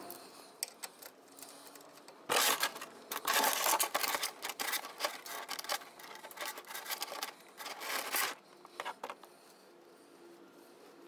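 Motor oil draining from the frame drain-plug hole of a Harley-Davidson Softail into a drain pan. A noisy rushing pour runs for about six seconds, from a couple of seconds in, with small clicks of handling before and after.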